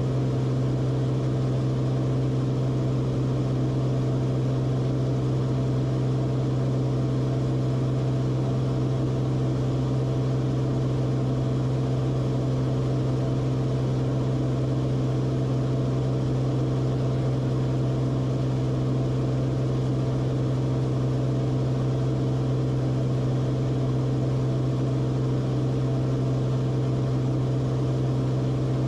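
Cessna Corvalis TTX's turbocharged six-cylinder engine and propeller running at a steady power setting: a constant low drone with a strong hum and a wash of noise, unchanging throughout.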